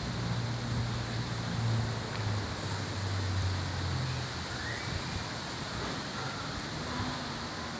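Wind blowing over the microphone ahead of a rainstorm, a steady rushing noise. A low hum underneath fades out about four seconds in.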